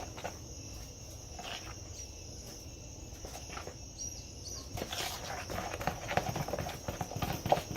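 A spoon knocking and scraping against a bowl while mixing bolinho de chuva batter. The clicks are irregular, sparse at first and busier from about five seconds in, over a steady high-pitched tone.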